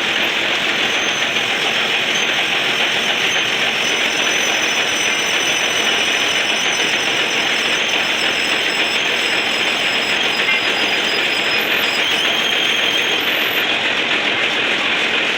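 Lathe running: a loud, steady mechanical noise with faint high whining tones above it.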